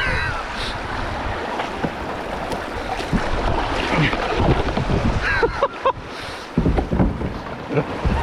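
River water rushing and splashing around a kayak running a rough stretch, with wind buffeting the microphone. A few sharp knocks and splashes come about five to six seconds in.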